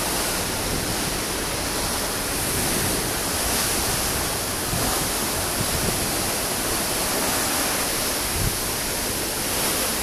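Steady rushing of wind and sea water passing a moving cruise ship, heard from the open deck.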